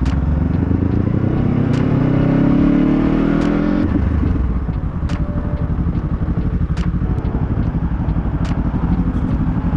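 Honda CBR500R parallel-twin motorcycle engine revving up, its pitch rising steadily for about four seconds, then running steadily at a lower, even pulse.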